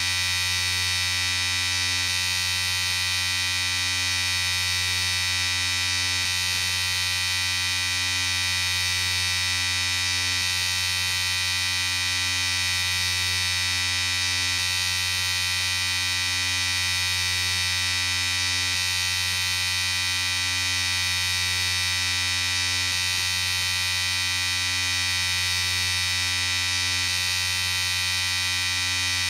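Electric shaver running steadily, a constant high buzz with a low hum beneath it.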